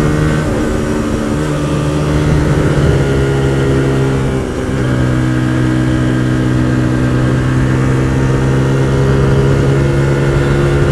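Hyosung GT125R's small 125 cc V-twin engine running at steady revs under way. The engine note steps in pitch a few times, with a brief dip in loudness about four and a half seconds in.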